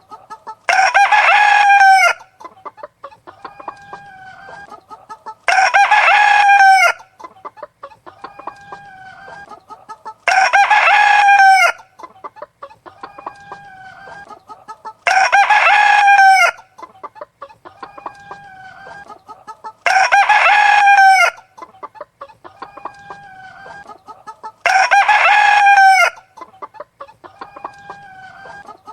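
A rooster crowing six times at even intervals of about five seconds, with chickens clucking more quietly in between.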